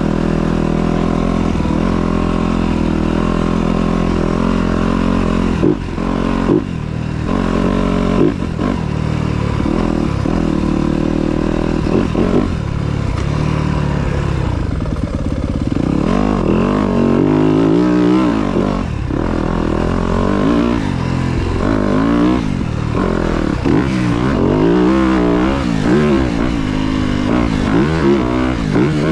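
Dirt bike engine running steadily at first, then from about halfway through revving up and down again and again through the gears.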